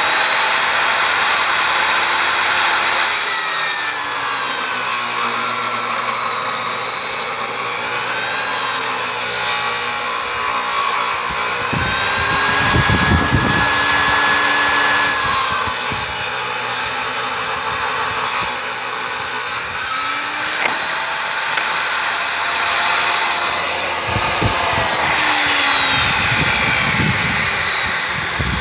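Ryobi RTS21G 10-inch table saw running at full speed, its universal motor and blade whining loudly, with the pitch sagging and recovering several times as the blade takes load from ripping a wooden board.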